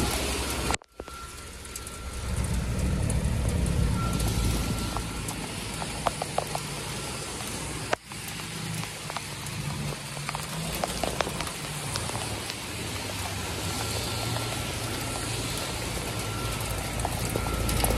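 Heavy rain falling around outdoor air-conditioner condensers, with the steady low hum of a running condenser unit's fan and compressor underneath. The sound cuts out briefly twice, about a second in and again about eight seconds in.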